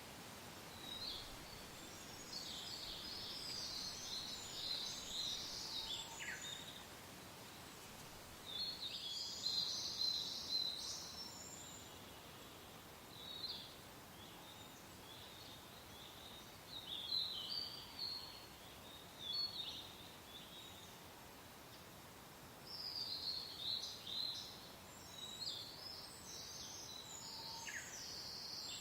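Songbirds chirping and singing in repeated high bursts over a soft, steady wind.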